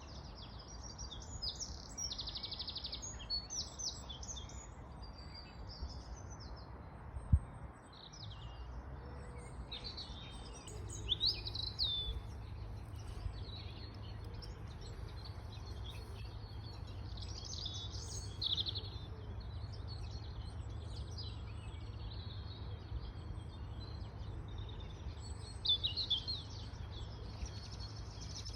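Wild birds singing and chirping, many short high calls one after another, over a steady low rumble that grows stronger about eleven seconds in. A single sharp knock about seven seconds in is the loudest sound.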